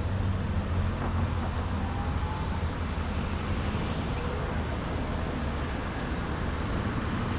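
City street traffic: a steady wash of vehicle engines and tyre noise with a constant low engine rumble.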